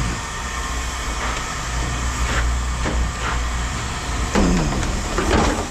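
Heavy diesel machinery running with a steady low drone, with several sharp metal clanks of scrap being moved, most of them in the second half.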